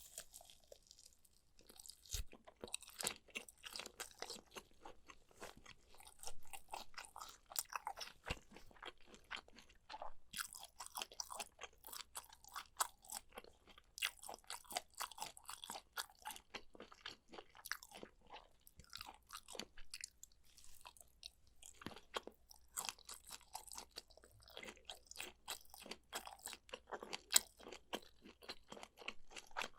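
Close-miked eating: rapid crisp crunches and wet chewing of food, going on in bursts with a few short pauses.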